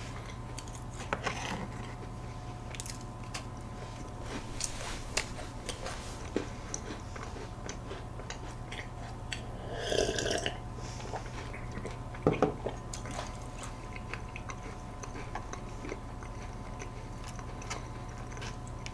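Close-miked chewing of a crunchy cookie, with scattered small crunches and mouth clicks. About ten seconds in there is a drink of milk from a glass, and a couple of louder knocks follow shortly after.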